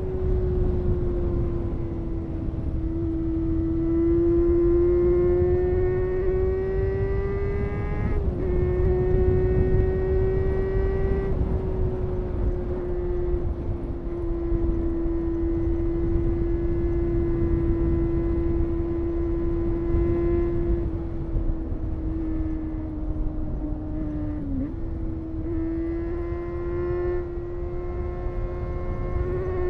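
Honda CBR250RR MC22's 250 cc inline-four engine running at high, steady revs under way, its pitch holding with small rises and falls. The pitch dips briefly twice, about eight seconds in and again near the end.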